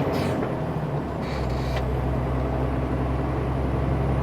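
Truck's diesel engine running under way, heard from inside the cab; its steady low note drops about half a second in and picks up again around a second and a half. Two short hisses sound near the start and about a second and a half in.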